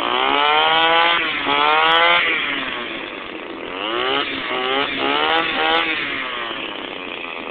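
Toro weed whacker engine, off its shaft, running and revved with its throttle: the pitch rises sharply several times and falls back, settling toward idle about a second before the end.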